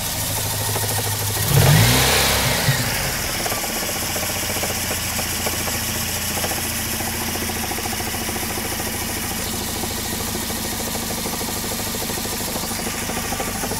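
Volvo 940 engine idling under the open bonnet, revved briefly about a second and a half in, with a fast, steady clacking from the engine whose cause the owner is asking about.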